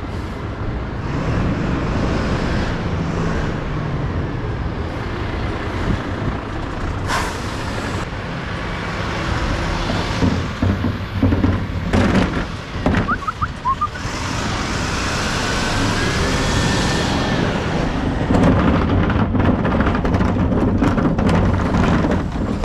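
Mercedes Econic refuse truck driving, heard from inside the cab: steady engine and road rumble, with a brief hiss about seven seconds in. A rising whine comes as the truck picks up speed about two-thirds of the way through, and there are cab rattles and clicks near the end.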